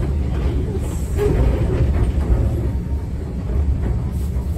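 Enoden (Enoshima Electric Railway) electric train running, a steady low rumble of motors and wheels on the rails, heard from inside the passenger car.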